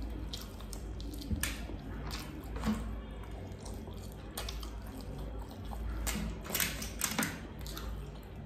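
Close-up wet chewing and lip smacking as a person eats roast beggar's chicken, with scattered sharp clicks and smacks, a few louder ones about a second and a half in and again around six to seven seconds in.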